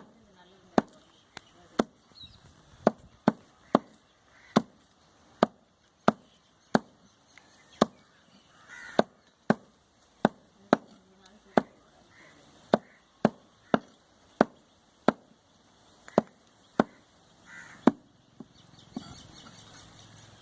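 Cleaver chopping goat meat, sharp single chops about one a second, stopping near the end.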